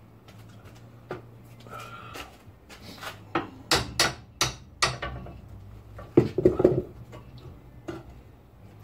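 Sharp knocks of hand tools on metal car parts: four quick strikes about 4 s in, then a louder rattling cluster of knocks a little over 6 s in, with a steady low hum underneath.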